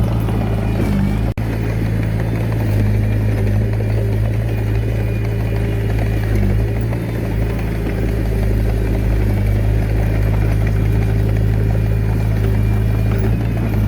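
Diesel engine of a Komatsu D21A mini bulldozer running steadily at a constant engine speed, with a momentary break in the sound about a second in.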